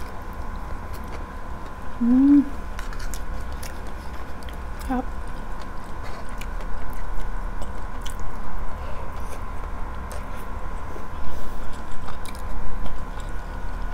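Close-miked chewing of soft food, kare-kare with tofu and eggplant in peanut sauce, with many small wet mouth clicks. There are two brief hummed "mm"s, about two seconds in and again near five seconds.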